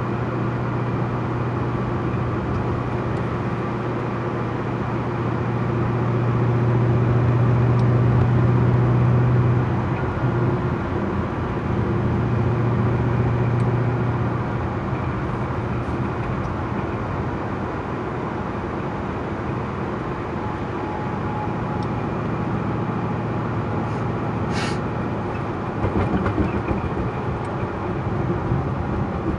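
A car driving, with a steady low engine drone and road noise. The drone swells, drops off about ten seconds in, comes back briefly, then settles into a rougher, even rumble. There is one short sharp click near the end.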